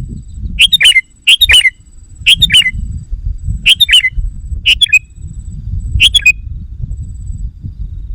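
Sooty-headed bulbul (kutilang) calling: six loud, short chattering phrases about a second apart, each falling in pitch, with a low rumble underneath.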